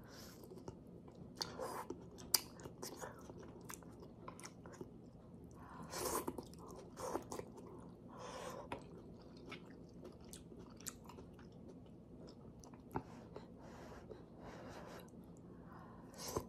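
A person chewing mouthfuls of instant ramen noodles close to the microphone, with many small wet mouth clicks and a few short slurps.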